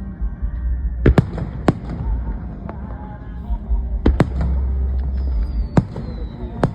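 Aerial firework shells bursting: a run of sharp bangs, some in quick pairs, over a low rolling rumble. A thin falling whistle sounds near the end.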